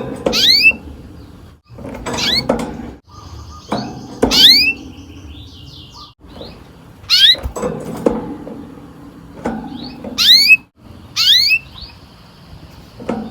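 Canary calling: short rising whistled notes repeated about every second or two, with a faint high steady trill between some of them.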